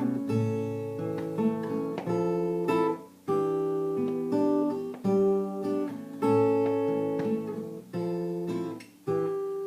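Acoustic guitar playing an instrumental passage of chords and picked notes, a new chord about every second or so with brief gaps between phrases.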